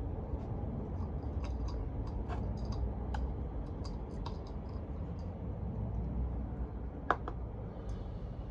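Light, scattered clicks and taps of the plastic oil filter cap and its parts being handled and wiped clean, with one sharper click about seven seconds in, over a steady low hum.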